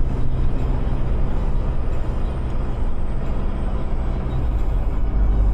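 Steady engine and road noise heard from inside the cabin of a moving vehicle: a constant low drone with tyre rumble, holding level throughout.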